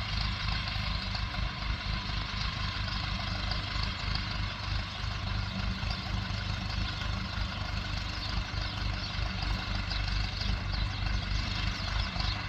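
A motor engine running steadily, a low rumble with a fast, even pulse.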